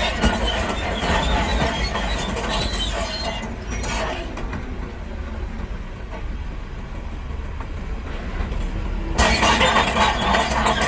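Heavy earthmoving machinery at work: diesel engines running with a steady low rumble, overlaid by metallic squealing and clatter. It eases off from about four seconds in, then comes back suddenly louder near the end.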